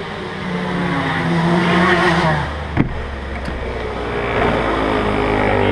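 Go-kart engine running and revving, its pitch climbing over the first couple of seconds, then dropping after a sharp click about three seconds in before building again.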